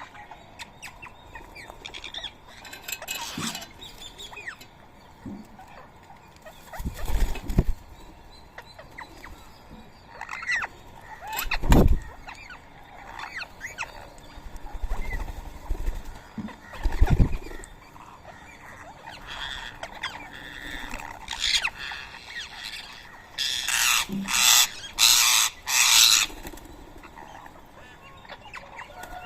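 Rose-ringed parakeets calling: scattered chirps and squawks, a few sudden low thumps through the middle, and a run of about five loud harsh screeches in quick succession near the end.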